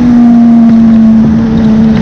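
Suzuki GSX-R1000 inline-four with a decat SC Project exhaust, running loud and steady, its pitch easing slightly lower.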